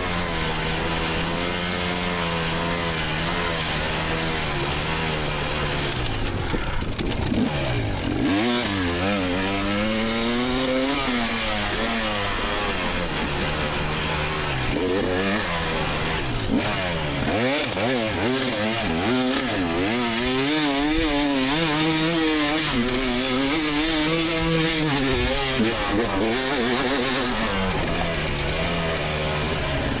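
Two-stroke dirt bike engine of a 2024 GasGas EX300 being ridden hard off-road, its revs rising and falling constantly with the throttle, with a deep drop in revs about seven seconds in and again around seventeen seconds.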